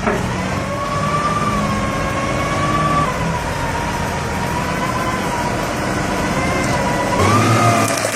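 Heavy truck driving, its engine running under a steady high whine that drops in pitch about three seconds in and rises again near the end.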